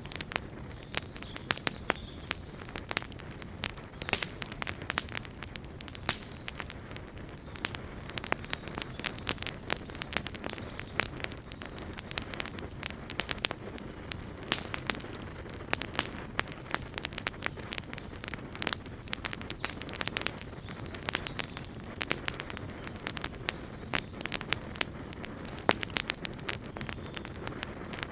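Wood campfire burning, with a steady low rumble of flames and frequent sharp, irregular crackles and pops.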